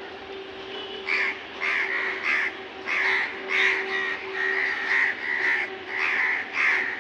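Crows cawing: about a dozen calls in quick succession, starting about a second in.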